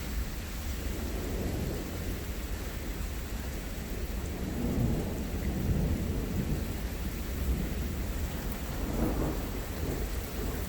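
Thunder rumbling over steady rain, the low rumble swelling about halfway through and again near the end.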